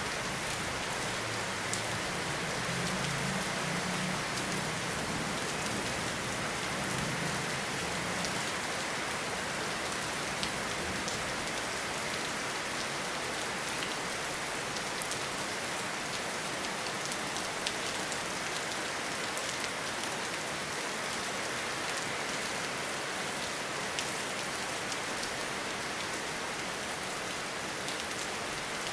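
Steady rainfall in a forest, an even hiss with scattered sharp drop ticks. A low rumble sits under it for about the first eight seconds.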